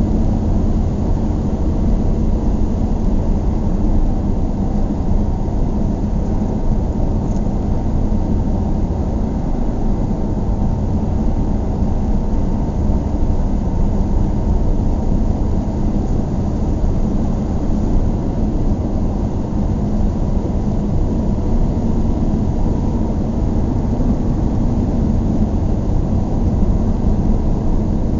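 Car driving at a steady pace, heard from inside the cabin: a steady low rumble of road and engine noise.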